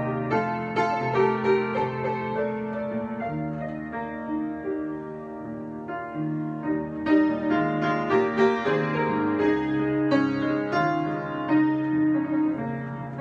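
Solo piano improvisation: chords and melody notes struck and left to ring, with busier clusters of notes near the start and again in the second half.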